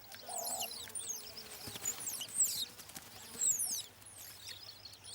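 Outdoor wildlife ambience: many short, high-pitched chirps, each falling in pitch, scattered irregularly and fairly faint.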